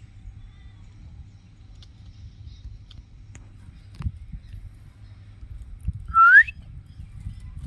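A common myna gives one short rising whistle about six seconds in, over a steady low rumble and a couple of faint knocks.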